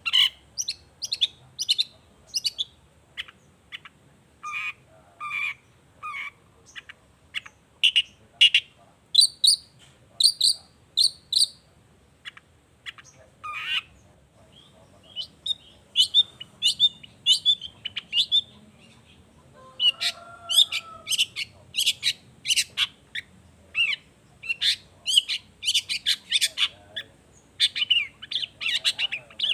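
Long-tailed shrike (cendet) singing: a fast, varied run of short, sharp chirping notes with brief pauses between phrases.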